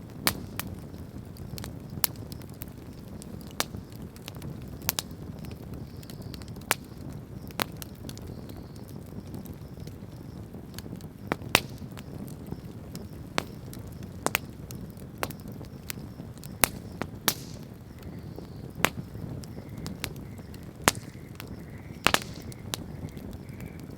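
Wood campfire crackling: sharp irregular pops, one or two a second, some louder than others, over the low steady rush of the flames.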